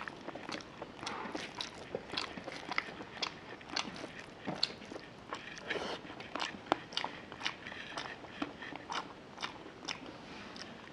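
Close-miked eating sounds: wet chewing and lip smacking of rice and chicken curry, with a steady run of short irregular smacks and clicks, several a second. Mixed in is the squish of curried rice being squeezed and mixed by hand.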